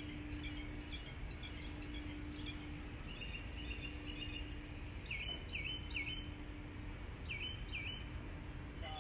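Songbirds chirping: many short, quick repeated calls, some sweeping down in pitch, over a low outdoor rumble, with a faint low hum that comes and goes.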